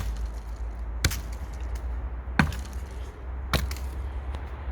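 Compact axe chopping into a thin, dry standing dead tree: sharp blows about one a second, four in all.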